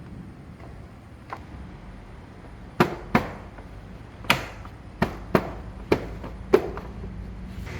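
A run of about seven sharp knocks or taps at uneven intervals, part of hand work on a small object.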